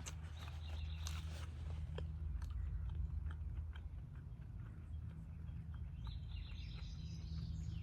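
Close-miked chewing of a sandwich, with many small wet mouth clicks, over a steady low hum. A high thin chirping call comes in about six seconds in and runs nearly to the end.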